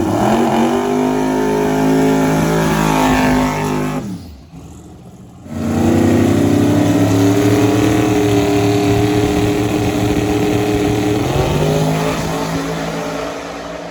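Drag race car engine running loud at high revs, holding a steady pitch. It breaks off about four seconds in, comes back strongly and drops to a lower pitch near the end.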